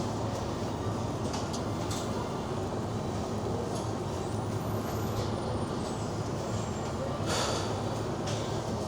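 Steady supermarket background noise with a constant low hum and a few faint clicks, and a short hissing rustle about seven seconds in.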